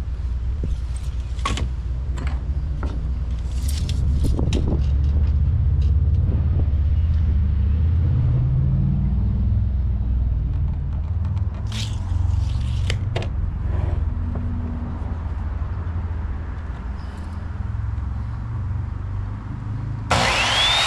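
A steady low rumble with scattered clicks and knocks, like screws and tools being handled. Near the end a power drill starts with a rising whine.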